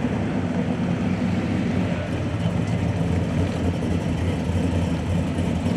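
A car engine running steadily at an even speed, with no revving.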